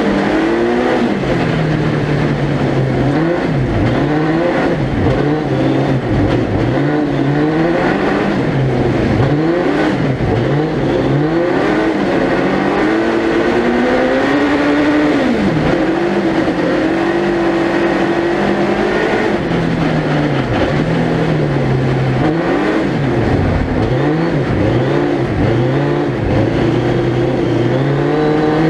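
Suzuki Hayabusa 1300cc inline-four motorcycle engine in a four-wheel-drive prototype car, heard onboard, revving up and dropping back over and over as the car is driven at speed.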